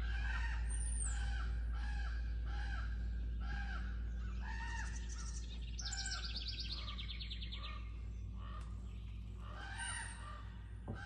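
Crows or ravens cawing in a steady series of harsh calls, about three every two seconds, with a rapid rattling call about five seconds in and more caws near the end. A steady low hum runs underneath.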